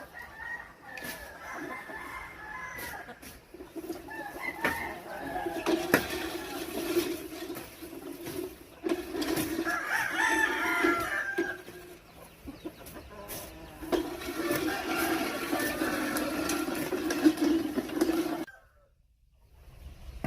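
Chickens clucking and game roosters crowing, with scattered sharp clicks. The sound cuts out suddenly near the end.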